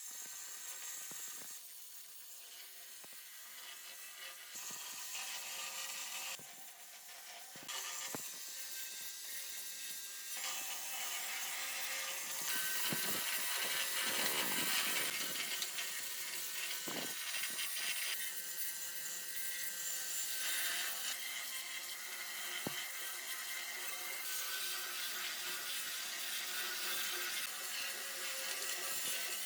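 A small power tool scraping and grinding against metal, a high hissing abrasion. The sound changes abruptly every few seconds between cut-together stretches, with a few light knocks.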